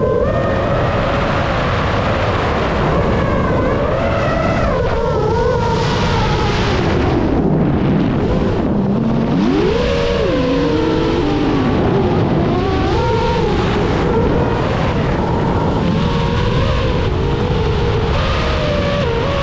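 Paramotor engine and propeller running, its pitch rising and falling with the throttle. About eight seconds in it drops low, then revs back up about a second and a half later. A steady rush of wind noise runs under it.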